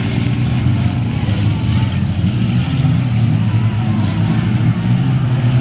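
Derby car engines running during an off-road derby heat, loud and steady.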